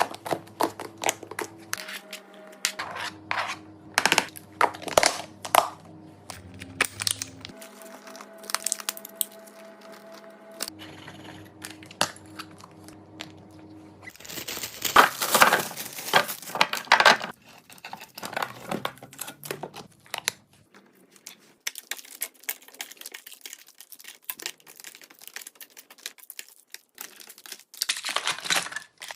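Packaging crinkling and tearing, with many light clicks and knocks of items being handled. Soft background music plays under it and stops about halfway through.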